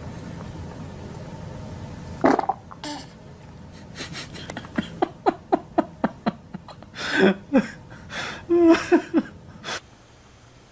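A baby farting, along with laughter.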